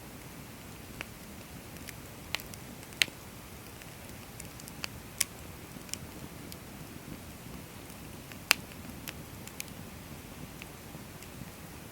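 Firewood burning in a bonfire stand, crackling: sharp pops at irregular intervals over a low steady hiss, the loudest pops about three seconds and eight and a half seconds in.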